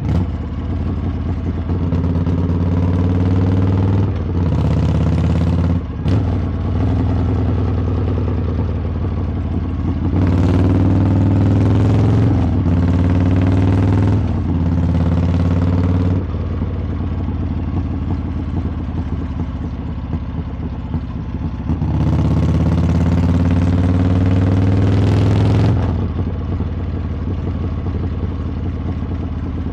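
Harley-Davidson V-twin exhaust under way, opened up on the throttle three times, with brief dips in each pull. Between the pulls it settles back to a lower, steady running note.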